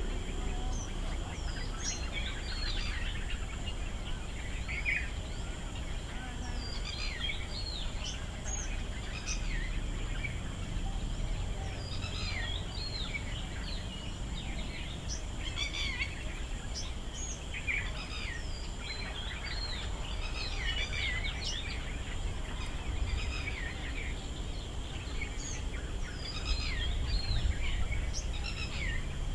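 Several birds chirping and twittering in quick, short calls, overlapping throughout, over a steady low rumble of outdoor background noise.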